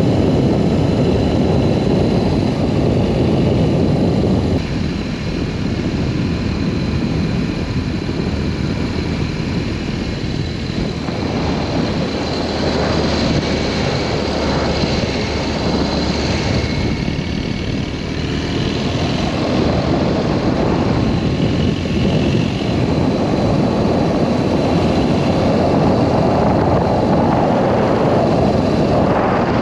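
BMW R1200S boxer-twin motorcycle engine running on the move, mixed with heavy wind rush on the microphone. The sound eases slightly about four seconds in.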